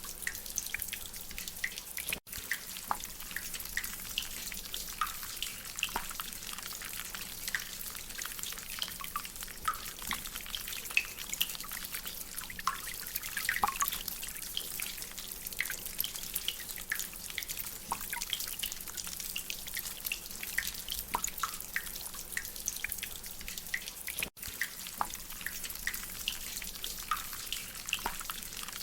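Rainwater dripping from a drainpipe: many irregular, high plinking drips over a steady hiss of rain. The sound cuts out for an instant twice, about 2 seconds in and near 24 seconds.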